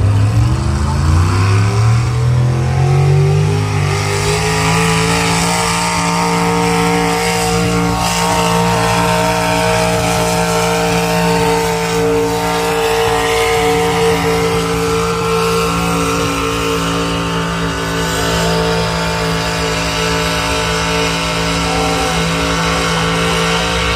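Pulling truck's engine revving up over the first few seconds, then held at steady high revs for the rest of the run.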